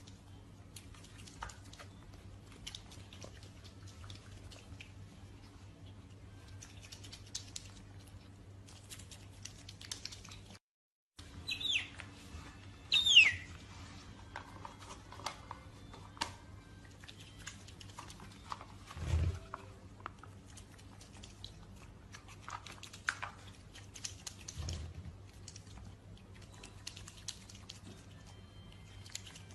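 An otter eating: scattered small clicks and smacks of chewing. Two short squeaks that fall in pitch come about 12 and 13 seconds in and are the loudest sounds, with a dull thump near 19 seconds and a soft low hum underneath.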